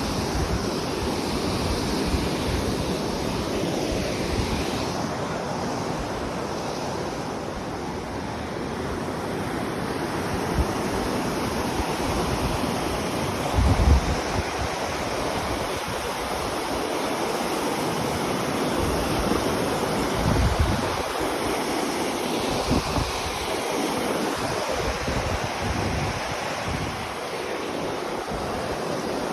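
Steady rushing noise of a waterfall, with wind buffeting the microphone in low gusts, the strongest about halfway through.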